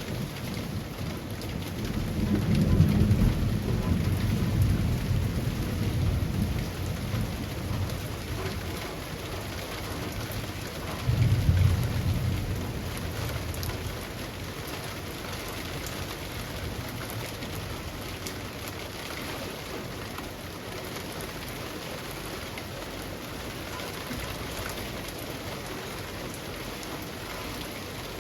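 Steady rain falling on trees, with two low rumbles of thunder: a long one starting about two seconds in, and a shorter one starting sharply about eleven seconds in.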